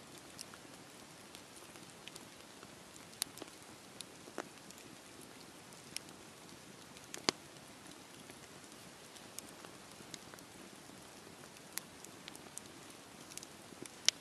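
Wood fire burning with a steady soft hiss and irregular sharp crackles and pops; the loudest pop comes about seven seconds in.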